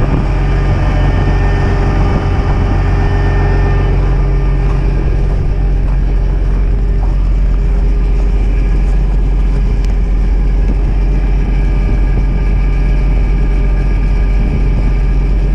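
Semi truck's diesel engine running steadily, driving the vac trailer's pump while it warms up in deep cold, with steady wind noise over it. Its lowest note eases a little about four seconds in.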